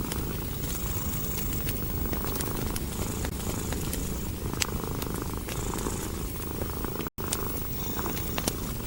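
Domestic cat purring steadily and close, with a wood fire crackling in scattered sharp pops. The sound cuts out completely for an instant about seven seconds in.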